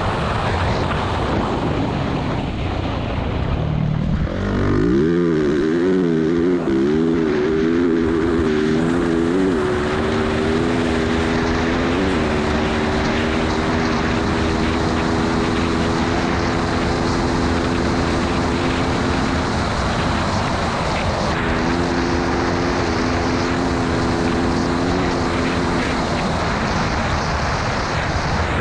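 Yamaha YZ450F's single-cylinder four-stroke engine running hard at speed, under a constant rush of wind on the microphone. Its pitch wavers up and down for a few seconds, then holds steady, dropping away briefly twice.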